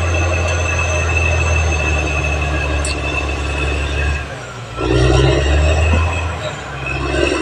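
Caterpillar D6R XL bulldozer's diesel engine running with a high, steady squeal from its steel tracks. About four seconds in the engine sound drops, then comes back louder twice as the machine works.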